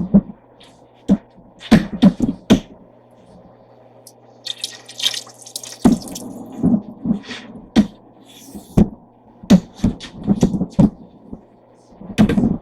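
Kitchen clatter: a string of sharp knocks and clinks of things being handled, with a short rush of running water about five seconds in, over a steady low hum.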